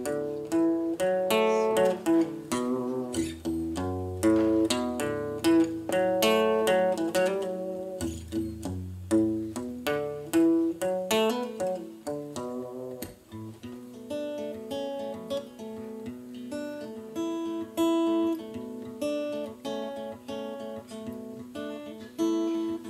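Acoustic guitar playing a song's instrumental intro: a run of separately plucked notes.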